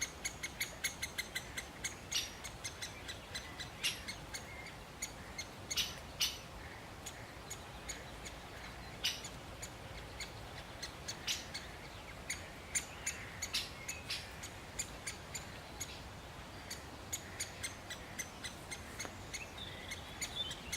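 Great spotted woodpecker giving short, sharp 'kik' calls, repeated irregularly: in quick runs of several a second at times, with longer gaps between.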